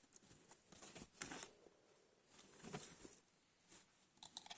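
Faint rustling as the soft fabric heating pad is handled, in a few short patches about a second in, near three seconds and near the end.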